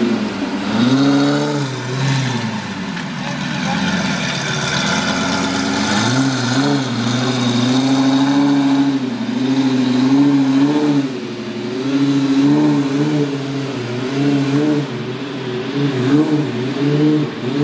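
A supercar's engine running with a deep purr and being blipped on the throttle, its note rising and falling again and again: one big rev early on, a softer dip, then small swells about once a second.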